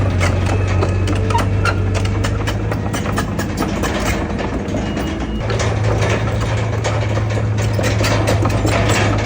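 Heavy diesel earthmoving machine running, its engine drone mixed with frequent clanks and clicks. The engine's low drone eases off briefly in the middle and comes back stronger about five and a half seconds in.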